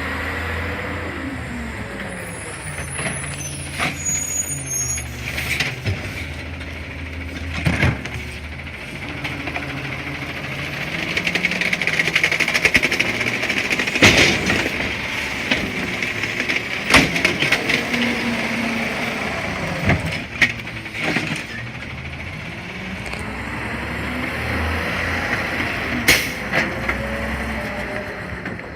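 CNG automated side-loader garbage truck working a route: the engine speeds up and slows down repeatedly, with hissing and several sharp clanks and bangs of metal and bins.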